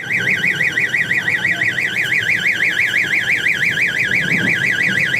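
Fire-extinguisher alarm in a train coach sounding continuously as a loud, rapidly warbling electronic tone, about six wobbles a second. It is going off because the extinguisher is hanging loose, with no stand to hold it. Under it is the low rumble of the moving coach.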